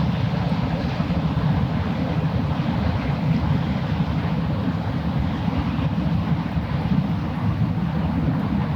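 Steady low rumble of a passing ship's engine, with no change in level.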